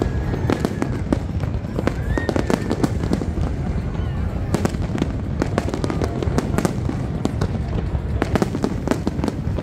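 Aerial fireworks display: many shells bursting in quick, overlapping bangs, several a second, over a steady low rumble.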